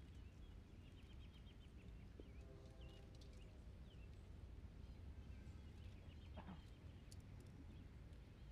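Near silence over a low background rumble, with faint small-bird chirps and short trills now and then.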